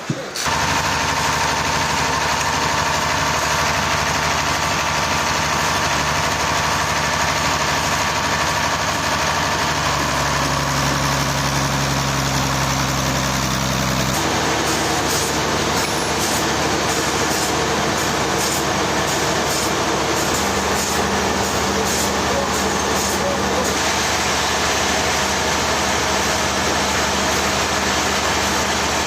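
An engine running steadily in a sawmill, with a constant mechanical din over it; its hum shifts to a different pitch about halfway through.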